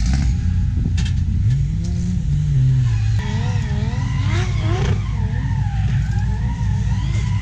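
Drift cars' engines running with a deep, steady rumble and revving up and down, one rev rising and falling about two seconds in.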